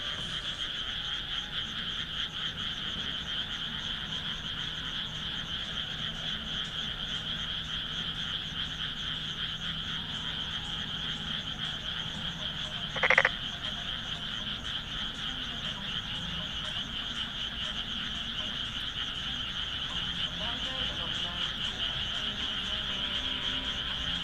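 A dense chorus of frogs calling from the rice paddies, a continuous fast-pulsing trill. About halfway through, a single brief sound rises above the chorus.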